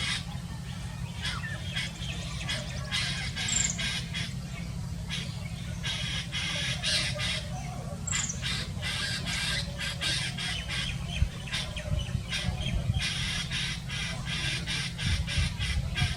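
A single bird calling with harsh squawks, given as rapid runs of short rattling notes in bursts of a second or two, with a few brief high falling whistles between them.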